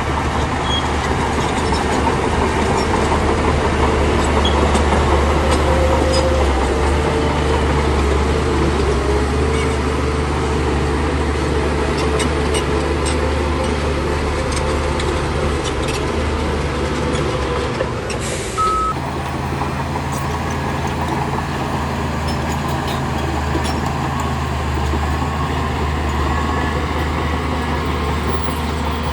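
Bulldozer's heavy diesel engine running steadily under load, with occasional faint clanks. Just before two-thirds of the way through there is a brief hiss and the sound changes abruptly, then the engine runs on.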